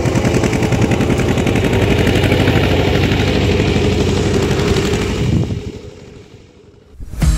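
A farm machine's engine running with a rapid, even pulse, then fading away after about five seconds. A short loud burst comes near the end.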